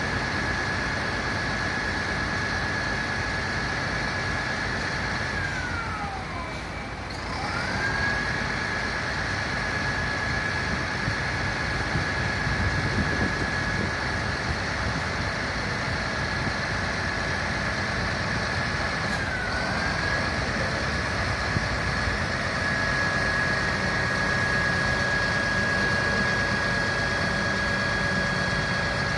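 Fire truck engine running, with a steady high whine over it. The whine drops steeply in pitch and comes back about six seconds in, then dips briefly once more near twenty seconds.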